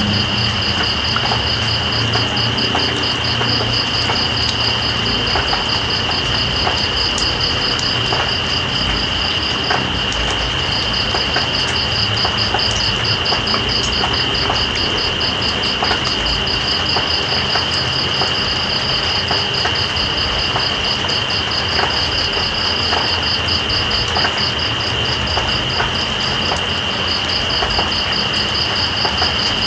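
Night insects calling over steady rain: one continuous high trill and a second, higher rapidly pulsing trill that breaks off briefly about ten seconds in. Scattered drips click through the steady hiss of the rain.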